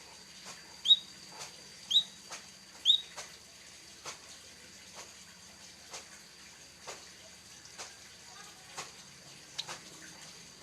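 A white-headed munia gives three short, high, upward-sweeping chirps in the first three seconds. Light clicks follow, roughly one a second, over a faint steady high tone.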